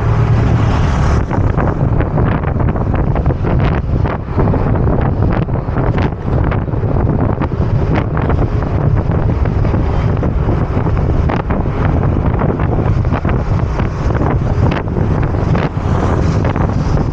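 Wind buffeting the microphone of a moving motor scooter: a loud, low rumbling rush broken by frequent irregular crackles.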